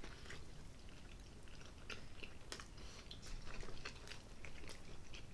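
Quiet close-miked chewing of a hot dog in a soft bun, with scattered small wet mouth clicks and smacks.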